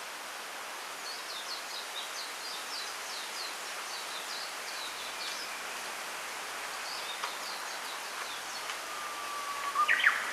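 Bamboo grove rustling in the wind, a steady hiss, with small birds chirping quick runs of short, falling high notes through the first half and again briefly later. A brief, louder, sharp sound stands out near the end.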